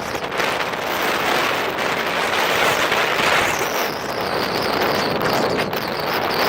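Storm-force wind of about 26 m/s buffeting the microphone: a loud, steady rushing noise that swells and eases.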